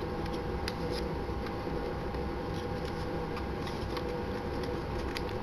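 Steady room hum with a few faint, scattered clicks from the camcorder being handled.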